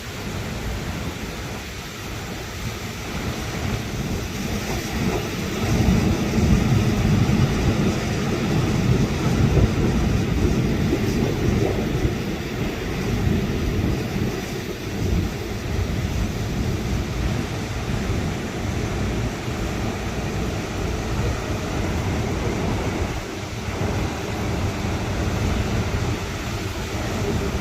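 Hurricane Beryl's storm wind gusting, a loud, unsteady rushing rumble that strengthens about five seconds in and stays heavy with rises and falls.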